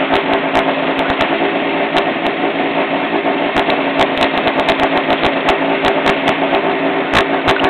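Rally car engine idling steadily while the car waits at the stage start line, heard from inside the cabin, with scattered sharp clicks.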